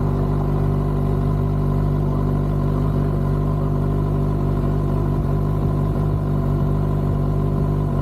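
Kawasaki ZX-6R's inline-four engine idling steadily, at an even, unchanging pitch.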